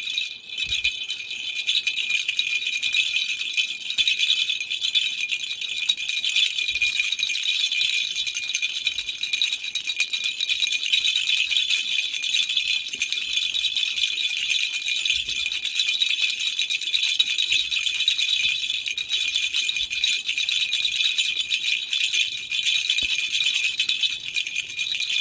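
Baby's rattle toy shaken continuously: a dense, high-pitched rattling that dips briefly just after the start.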